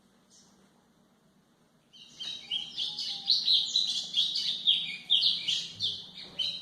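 Golinha (white-throated seedeater) singing: a rapid run of high, varied chirps and trills that starts about two seconds in and lasts about four and a half seconds.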